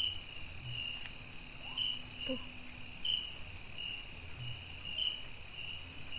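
Night insect chorus in tropical forest: a steady high-pitched drone with a cricket chirping in a regular pulse about one and a half times a second.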